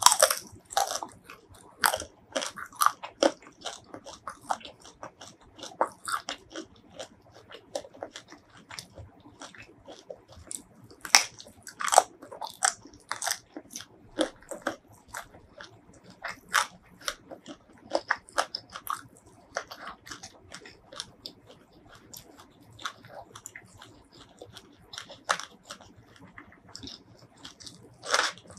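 Close-miked eating of spicy fried shrimp and rice: irregular crisp crunches and bites with softer chewing between.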